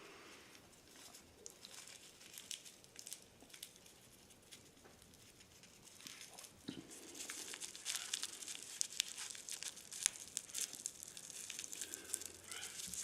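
Faint crinkling and crackling of a cigarette rolling paper and crumbled dry tobacco leaf being rolled by hand: sparse at first, with dense fine crackles from about halfway through.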